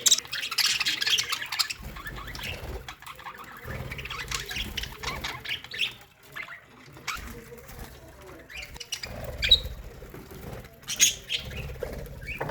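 A colony of budgerigars chattering and chirping in an aviary, many birds calling at once in a busy, continuous warble.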